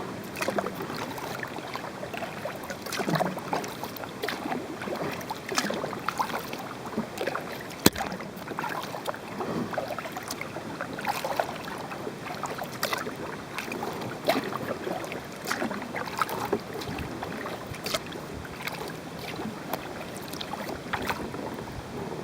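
Kayak paddle strokes: the blade dipping and splashing in the water, with irregular drips and small splashes throughout. A single sharp knock stands out about eight seconds in.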